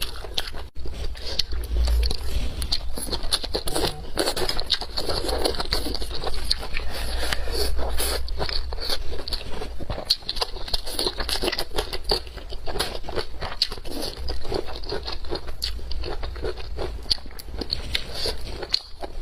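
A person biting and chewing food close to the microphone, a dense run of small clicks and smacks.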